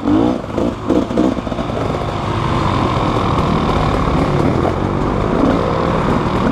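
Motorcycle engine running steadily, loud and close, with a brief voice over it about the first second.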